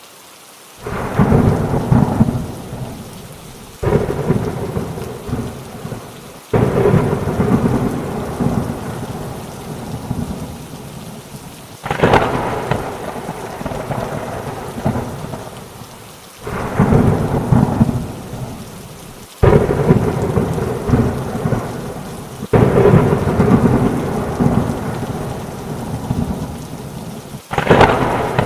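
Thunderstorm with heavy rain: about eight thunder peals, each starting suddenly and rumbling away over a few seconds, over a steady hiss of rain.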